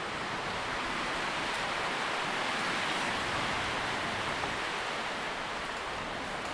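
Tree leaves rustling in the wind: a steady, even hiss of moving foliage that swells a little around the middle and eases slightly toward the end.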